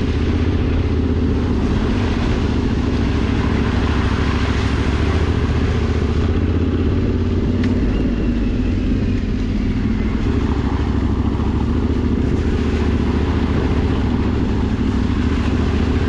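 Motorcycle engine running steadily at an even speed while being ridden.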